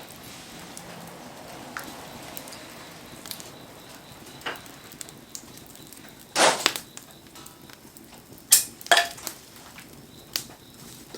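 Wood campfire burning in the rain: a steady hiss with a few sharp pops and cracks from the burning wood, the loudest a little past halfway and two more in quick succession soon after.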